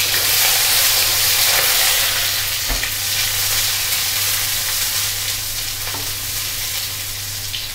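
Potato halves sizzling as they shallow-fry in hot oil in a kadai, with a spatula stirring them and knocking against the pan a couple of times. The sizzle slowly quietens.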